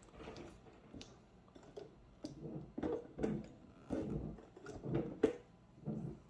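Irregular light clicks and knocks, about a dozen spread over several seconds, from hands handling a desktop PC case and its cables.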